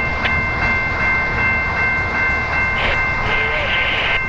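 Loaded coal train's freight cars rolling by: a steady rumble of wheels on rail, with a steady high-pitched whine over it and a short hiss near the end.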